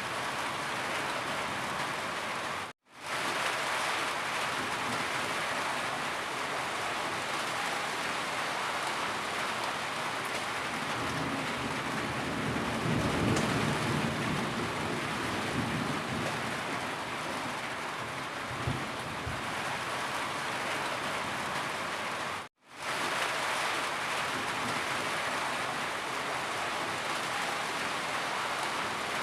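Steady, heavy rain falling on surfaces. It drops out to silence for a split second twice, about three seconds in and again near the end. A deeper low rumble swells under the rain for a few seconds in the middle.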